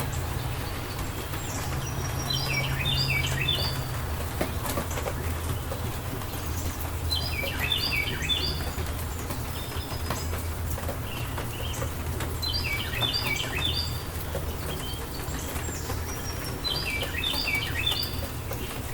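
A songbird sings the same short phrase four times, each a quick run of high notes stepping downward and lasting about a second, roughly every five seconds. Underneath runs an even hiss of rain with a steady low rumble.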